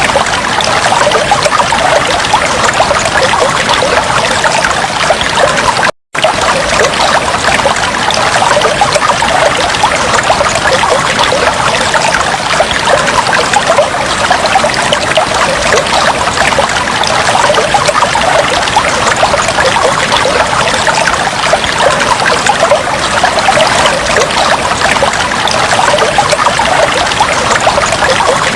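Aquarium water trickling and bubbling steadily, like a filter's outflow splashing into the tank. It cuts out for an instant about six seconds in.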